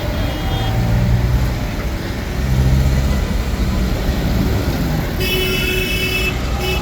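Tractor engines running as a procession of tractors passes. A horn sounds about five seconds in, a steady high-pitched note lasting about a second, then sounds again just before the end.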